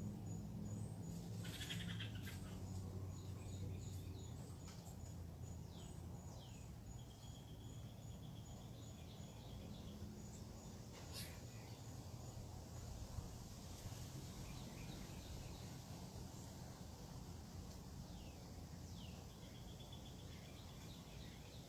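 Wild birds calling: scattered short, downward-slurred chirps and a couple of brief high trills, with a thin, rapid high ticking through the first half, over a steady low rumble.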